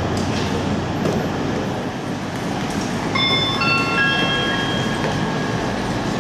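HST Class 43 diesel power car running as the train draws into the platform. About three seconds in, a station public-address chime plays three rising notes that ring on and fade, the usual lead-in to an announcement.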